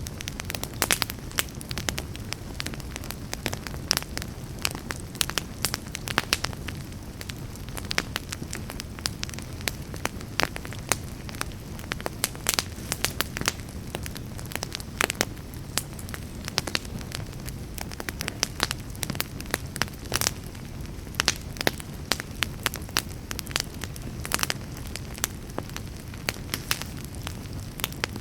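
Wood campfire burning steadily, with many sharp, irregular pops and crackles over a low, steady rumble of the flames.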